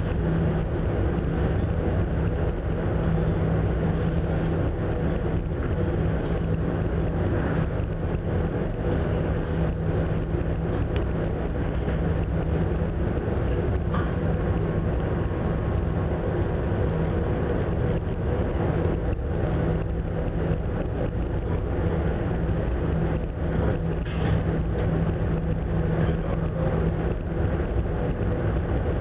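Steady drone of the Ogasawara Maru ferry's engines, a constant low hum under a rushing noise of wind and sea.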